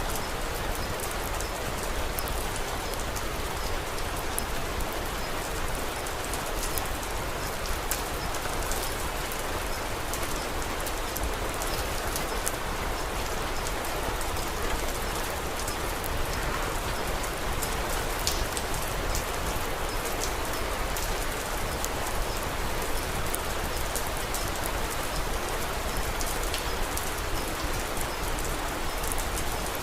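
Steady rain, with many small drop ticks and pops scattered through it.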